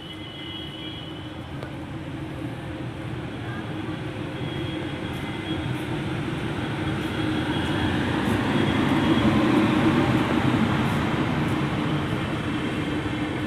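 Passenger express train pulling into a station platform, its rumble growing steadily louder, peaking about two-thirds of the way in and then easing slightly as it slows.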